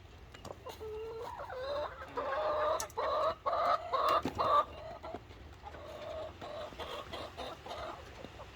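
Domestic chickens clucking, with a quick run of louder calls in the middle and softer clucks around it.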